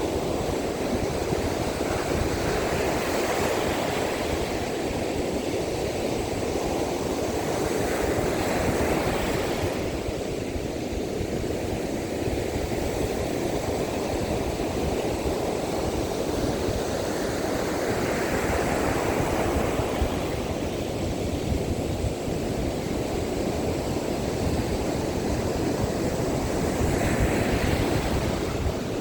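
Surf breaking on a beach in strong wind: a continuous rush of waves that swells louder every several seconds, with wind buffeting the microphone as a low rumble.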